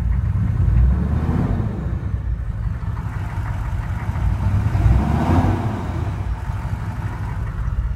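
1994 GMC K2500 Suburban's 6.5-litre turbo-diesel V8 revved twice, its note rising and falling each time, about one and five seconds in, with the new turbocharger spooling up and whining as the revs climb.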